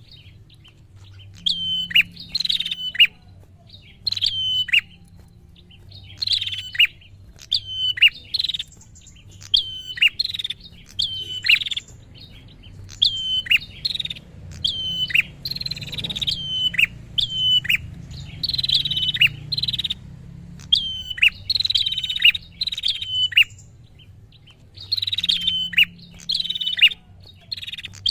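Prinia (prenjak) calling persistently: loud, sharp, high chirps in quick groups of two or three, repeating about once a second.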